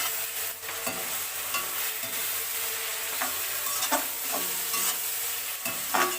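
Onion, capsicum and spice paste sizzling in hot oil in a pan as a spatula stirs and scrapes through it, with several sharper scrapes and knocks against the pan, the loudest near the end. The masala has been fried down until the oil separates, and soy sauce has just gone in.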